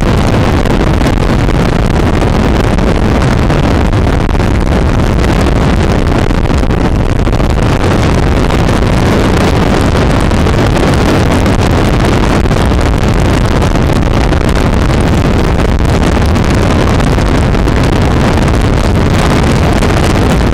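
Loud, steady wind noise on the microphone of a camera riding on a moving motorcycle, with the motorcycle's running noise buried in it.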